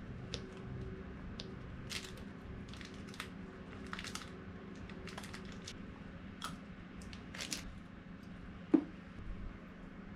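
Light clicks and taps of small parts being handled during brake caliper work, with one sharper knock near the end, over a steady low hum.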